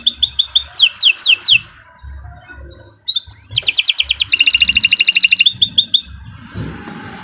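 Domestic canary singing: a fast trill of repeated high notes and a few downward-sweeping notes, then a pause of about a second and a half. A second long, fast trill follows and stops about six seconds in.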